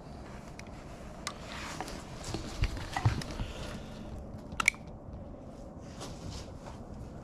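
Scattered light clicks and knocks of tools and plastic being handled at a workbench over a steady background hiss, with a few louder thumps about three seconds in and a sharp click a little past halfway.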